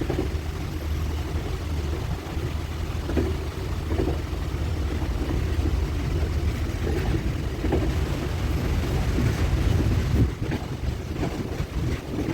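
Moving passenger train: a steady low rumble of the running train and rushing air, with a few faint knocks now and then.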